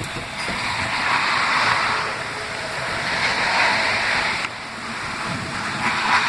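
Heavy rain pouring down as a steady hiss that swells and eases, with a sudden drop in level about four and a half seconds in.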